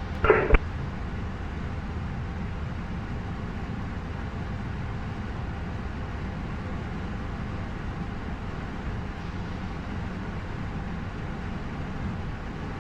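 Steady flight-deck noise of an Airbus A220-100 lining up for takeoff: its Pratt & Whitney PW1500G geared turbofans at idle and the cockpit ventilation, an even low rumble. A brief burst of radio speech ends in a click about half a second in.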